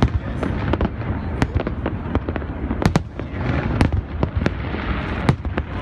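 A fireworks display going off: a rapid, irregular run of sharp bangs and crackles over a continuous rumble of shell bursts.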